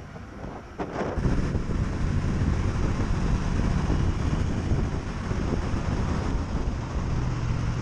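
Small motorcycle engine running under way, with wind buffeting the microphone; the sound gets much louder about a second in and then holds steady.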